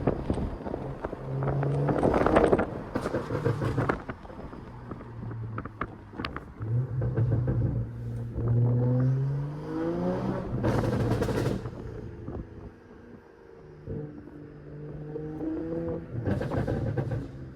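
Straight-piped BMW 540i with a catless downpipe, its B58 turbocharged inline-six heard from inside the cabin with the windows up while driving. The engine note climbs in pitch under acceleration around the middle, and there are several louder stretches of rushing noise.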